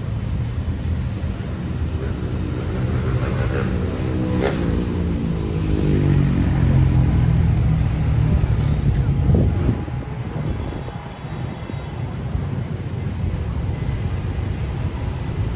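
Street traffic with a steady low rumble, and a motor vehicle driving close past in the middle, its engine note falling as it goes by.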